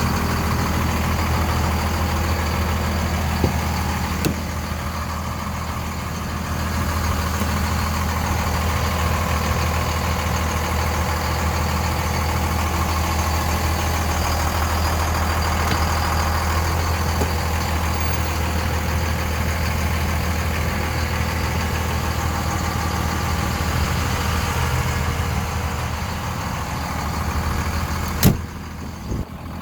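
2001 Dodge Ram 2500's 5.9-litre Cummins 24-valve turbo diesel idling steadily. A sharp click comes near the end, and the sound drops off just after it.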